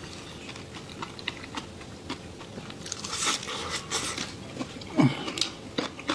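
A person eating close to the microphone: crisp crunching bites and chewing, louder about three seconds in, with a short hum about five seconds in.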